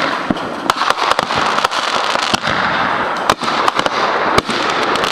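Consumer fireworks going off: a dense, irregular run of sharp cracks and pops over a continuous crackle.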